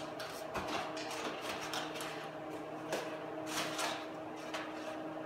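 Scattered light clicks and rustles of dolly parts and packing material being handled, over a steady low hum.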